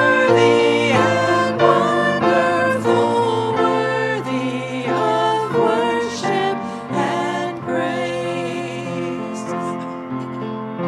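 A group of voices singing a church song with keyboard accompaniment, held notes with vibrato.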